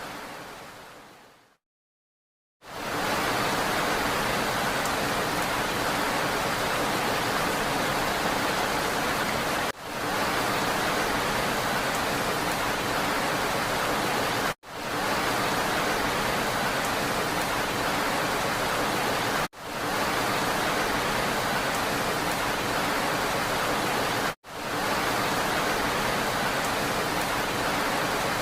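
Steady rain hiss that fades out to about a second of silence near the start, then comes back and keeps cutting out for an instant about every five seconds: a short rain recording looped over and over.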